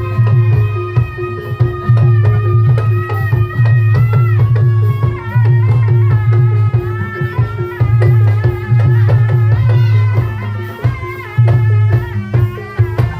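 Live Javanese folk music of the kind that accompanies a dawangan/barongan show: busy hand-drumming and percussion over a heavy low pulse, with a melody line whose notes bend and waver on top.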